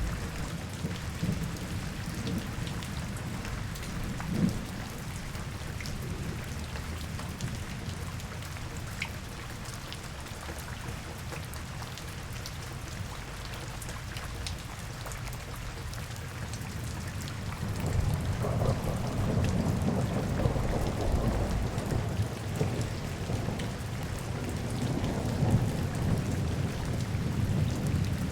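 Steady rain falling on hard surfaces, with scattered light drop ticks. A low rumble swells about two-thirds of the way through and carries on to the end.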